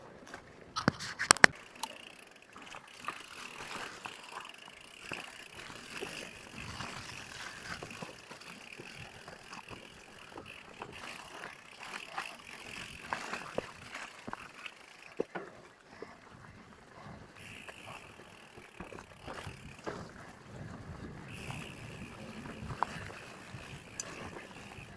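Mountain bike being ridden over a trail: steady rolling and rattling noise broken by sharp knocks and clatters, the loudest about a second in.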